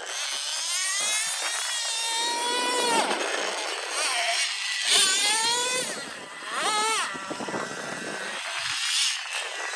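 Small two-stroke nitro engine of a Traxxas Revo 3.3 RC truck running at high pitch and revving up and down repeatedly under throttle, with a few quick rev-ups around the middle.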